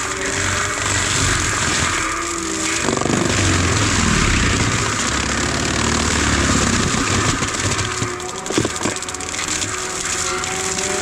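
Heavy earthmoving or forestry machine engine running under load, its pitch rising and falling as it works, with a sharp knock about eight and a half seconds in.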